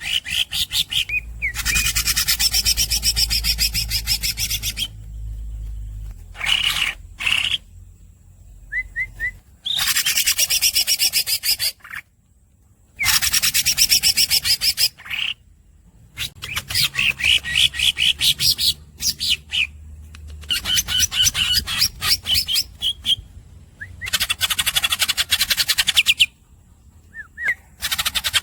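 Cucak ijo (green leafbird) singing: long rolls of fast, high repeated notes, each lasting a second or three, broken by short pauses and a few brief squeaky chirps.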